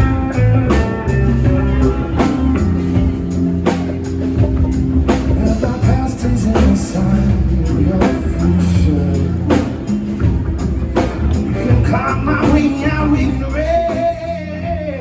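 A rock band playing live: electric guitar, bass and drum kit with a steady beat, an instrumental stretch with a voice sliding in near the end.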